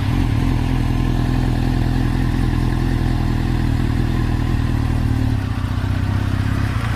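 Motorcycle engine running loud and steady at an even pitch, with no revving.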